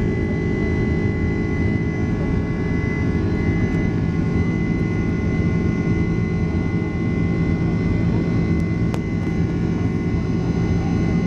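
Steady cabin noise inside a Boeing 767-300 airliner: a low even rumble from its jet engines and air system, with several steady whining tones above it.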